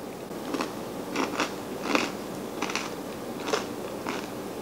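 Close-up chewing of a spoonful of granola and yogurt parfait: a string of irregular, crisp crunches from the granola, about nine over the few seconds.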